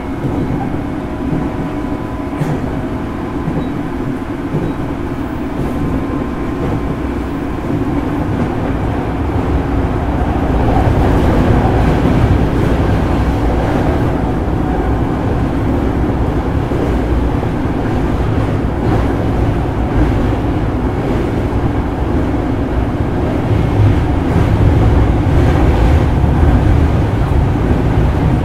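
Running sound heard inside a JR East 205 series electric commuter train: a steady rumble of wheels on rails and traction motors. It grows louder about ten seconds in and again near the end.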